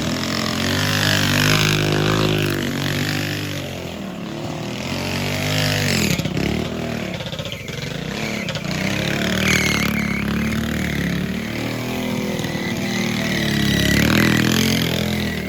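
Mini bike engine revving up and down over and over, its pitch rising and falling as the bike accelerates and eases off.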